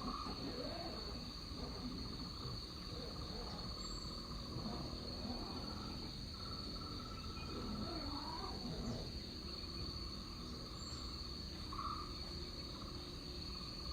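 Tropical rainforest insects: a steady high-pitched drone over a lower pulsing trill that drops out for a few seconds in the middle and then resumes, with faint sweeping animal calls underneath.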